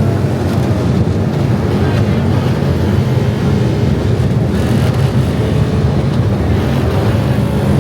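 Loud, steady low rumble of many motorcycle engines running and revving together.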